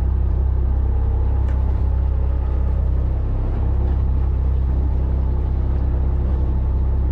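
A fishing charter boat's engine running with a steady low drone.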